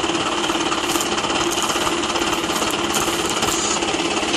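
Diesel tractor engines running hard under heavy pulling load, a steady rapid knocking clatter with no let-up.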